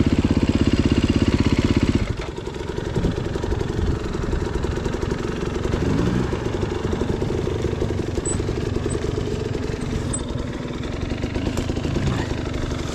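Off-road motorcycle engine running close with a fast, even pulse, cutting off abruptly about two seconds in. After that, quieter motorcycle engines keep running, with a couple of brief rises in pitch.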